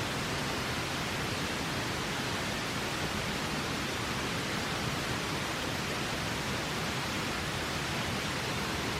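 River water flowing: a steady, even rushing that does not change.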